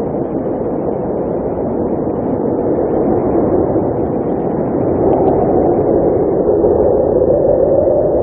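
Blizzard wind blowing as a steady low rush, growing a little louder about halfway through.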